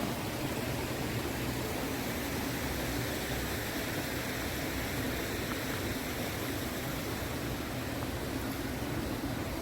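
Steady, even rushing of flowing water, with no separate events.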